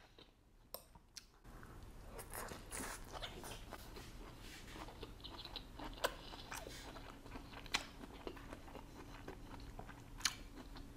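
Close-miked chewing of a mouthful of fish and vegetables, quiet and wet with light crunching, starting about a second and a half in. A few sharp clicks of a fork against the plate are scattered through it.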